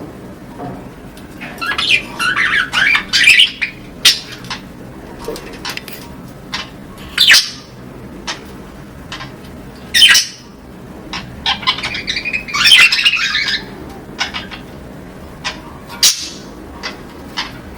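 Budgerigars chattering and squawking: two longer bursts of warbling chatter, about two seconds in and about twelve seconds in, with loud single squawks and short chirps between them.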